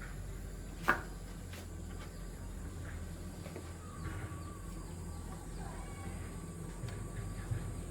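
A single sharp knock about a second in over a steady low hum, with a few faint chirping animal calls later on.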